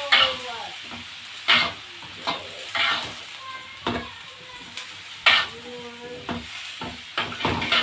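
Food sizzling in hot oil in a pan while it is stirred, a utensil scraping and knocking against the pan every half second to a second, with some squeaky scrapes.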